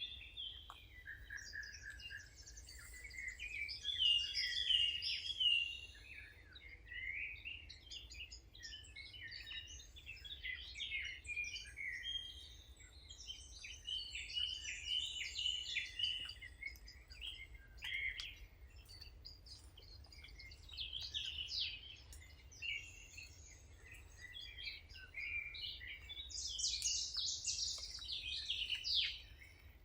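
Songbirds singing, several at once, in overlapping chirps and trills, with a faint steady low rumble underneath.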